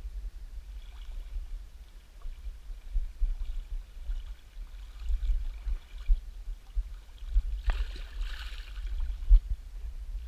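Wind buffeting the microphone as a low, uneven rumble, over a faint rush of river water, with one sharp click near the end.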